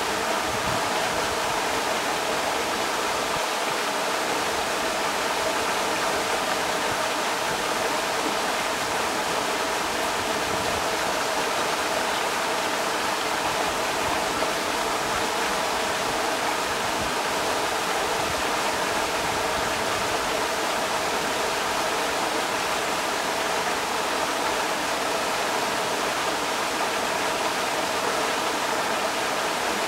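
Creek water rushing steadily over rocks, a constant even splashing hiss.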